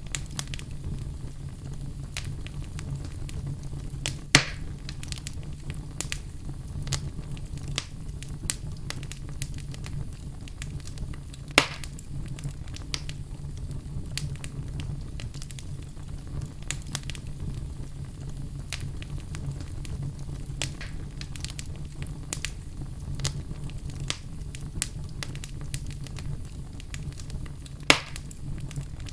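Wood fire burning in a fireplace, crackling steadily with many small snaps over a low steady hum, and three louder pops about four, eleven and twenty-eight seconds in.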